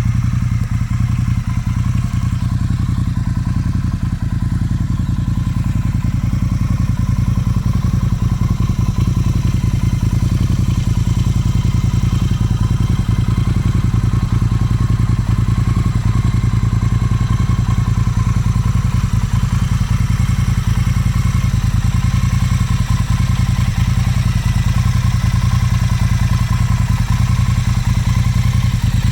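Motorcycle engine running steadily at an unchanging speed, a constant rapid beat with no revving.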